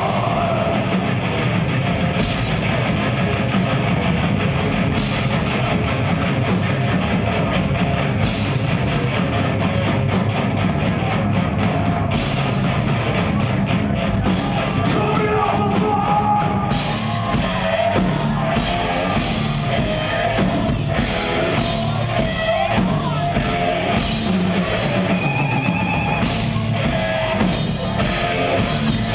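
Live death metal band playing: distorted guitars and a drum kit, with fast regular drum hits through the second half, and possibly vocals.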